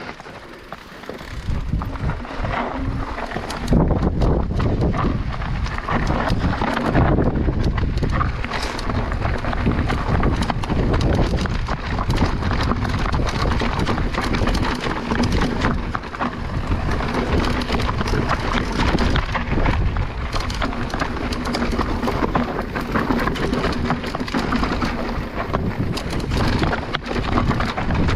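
Mountain bike riding down a rough, rocky trail: tyres rolling over stones and gravel, the bike rattling constantly over bumps, with wind on the microphone. It gets louder a few seconds in as the pace picks up.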